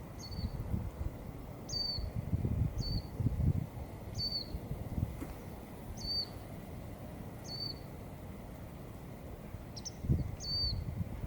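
A small bird repeating a short, high chirp that drops in pitch, about once every second or so, over low rumbling noise that swells twice.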